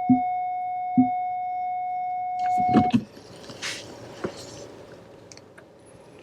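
A steady electronic warning tone with a soft tick about once a second, then a few knocks just before three seconds in, when the tone cuts off. Faint rustling follows.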